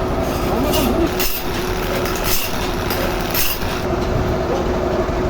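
Sawmill machinery running: a steady mechanical drone with a low hum, and short hissing swishes coming back every second or so.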